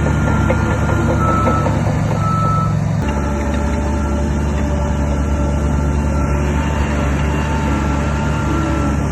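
Heavy diesel construction machinery running steadily, with a reversing alarm beeping over it. The engine sound changes abruptly about three seconds in.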